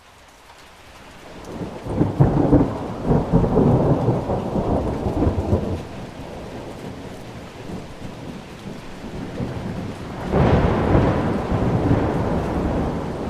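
Steady rain fading in, with thunder rolling twice. The first is a long rolling rumble about two seconds in that lasts some four seconds. The second starts suddenly about ten seconds in and dies away slowly under the rain.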